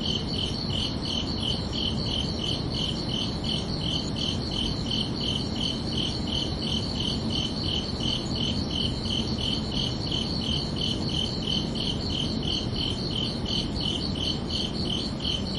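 Crickets chirping in a steady, even rhythm of about three chirps a second, over a low, steady background noise.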